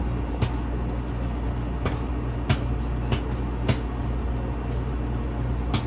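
Microwave oven running with a steady hum while a bag of popcorn pops slowly, about six scattered pops half a second to two seconds apart. The slowed popping is the sign that the popcorn is nearly done and the microwave should be stopped.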